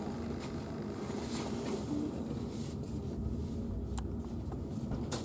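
Steady low rumble of a passenger train carriage, heard from inside as the train rolls slowly through a station. A couple of sharp clicks come near the end.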